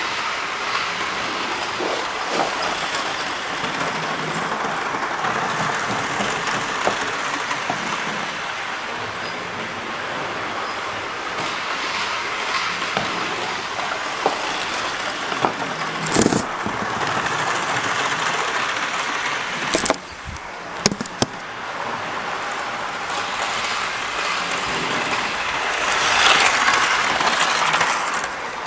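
OO gauge model train running on the layout track: a steady whirring rattle of motor and wheels, with a few sharp clicks, a brief drop about twenty seconds in, and louder near the end.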